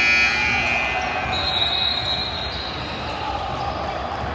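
Gymnasium scoreboard horn ending just after the start, marking the end of the game, followed by a short high-pitched squeal about a second and a half in, over the hum of a gym crowd.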